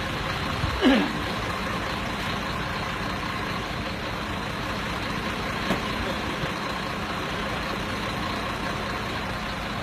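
Mercedes-Benz vehicle's engine running steadily under load as it pulls a truck out of mud. About a second in comes a brief, loud sound that falls sharply in pitch.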